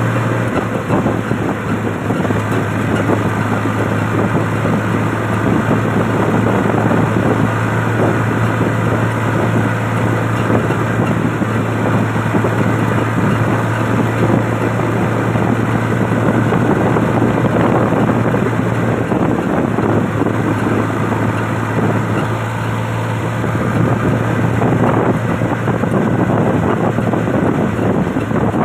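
Swaraj tractor's diesel engine running steadily at constant speed, with a continuous low hum.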